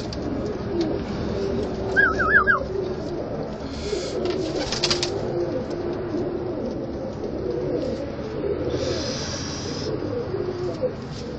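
A flock of domestic pigeons cooing steadily in a coop. A short high warbling chirp comes about two seconds in, and a few brief rustling noises come later.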